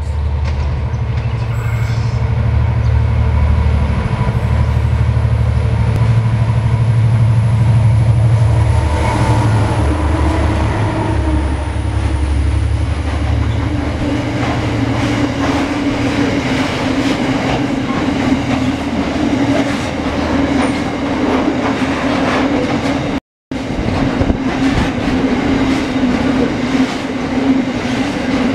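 A coal train hauled by diesel locomotives runs through the station. The locomotives' deep engine drone comes first, and after about 14 seconds it gives way to the steady rumble and rattle of coal wagons rolling past. The sound cuts out briefly about 23 seconds in.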